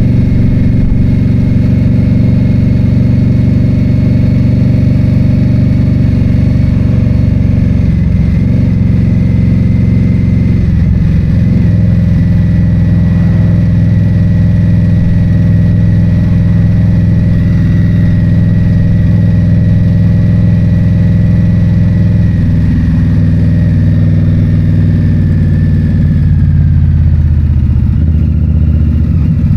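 2022 Indian Scout Bobber's V-twin engine running steadily under way, its pitch shifting slightly a few times and falling near the end as the bike slows.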